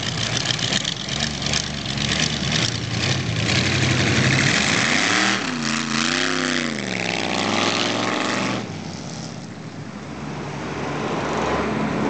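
Ford Model A rat rod's engine running. Its pitch rises and falls about halfway through, then the sound drops off quieter for the last few seconds.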